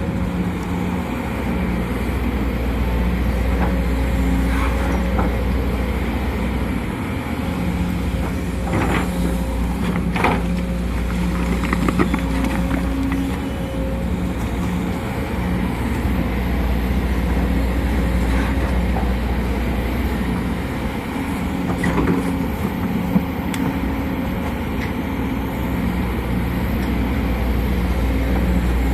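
Sumitomo SH210 hydraulic excavator's diesel engine running under working load, its note strengthening and easing as the machine digs and swings, with a few sharp knocks and clanks from the bucket and arm.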